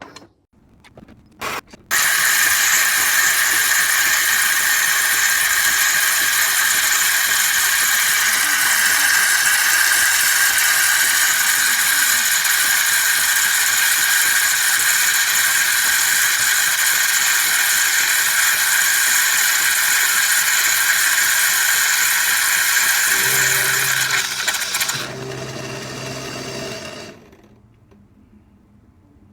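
Philips 3200 Series automatic espresso machine running a brewing cycle: a loud, steady rushing noise for about twenty seconds, then a quieter hum that stops a few seconds later.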